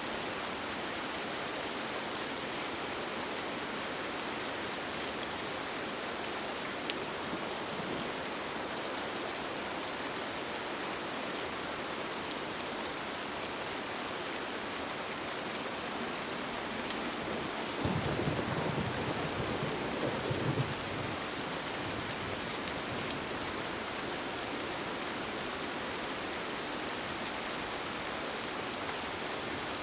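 Steady rain falling on a tent, an even hiss. About two-thirds of the way through, a low rumble of thunder swells for about three seconds and fades.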